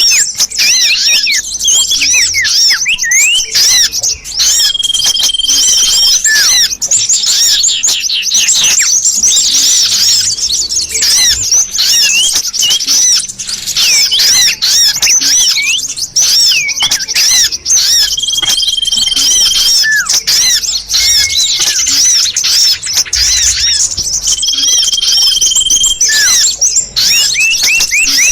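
Bird-luring recording of small-bird calls played loud through a loudspeaker: a dense, unbroken chatter of fast, high chirps and down-sweeping squeaky notes, with a single held whistle that comes back three times.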